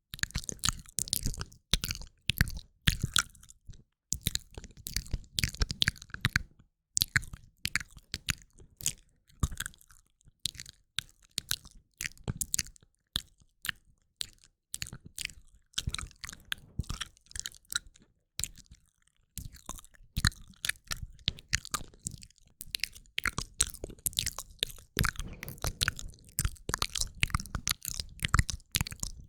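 A woman's close-miked ASMR mouth sounds: a fast, irregular run of clicks and smacks with a few short pauses, moving between the ears.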